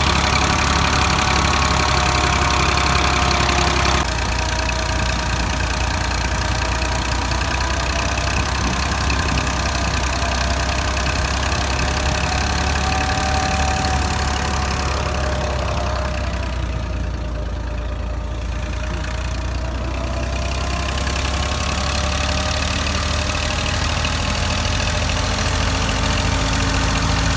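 Ursus 2812 tractor engine running steadily while driving a thresher: a loud, continuous engine sound with a wavering hum above it. The sound changes abruptly about four seconds in.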